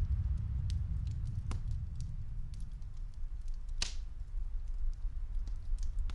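Muffled low rumble of snowstorm wind, with the sparse crackles and pops of a wood fire; one pop near the middle stands out louder than the rest.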